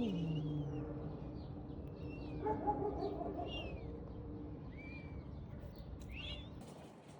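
Small birds chirping again and again over a steady low hum. A low, falling sound comes right at the start, and a short pitched call sounds about two and a half seconds in.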